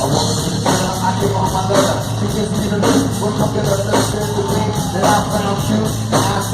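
Rock band playing live through a concert PA, with a strong beat hitting about once a second under a melodic line.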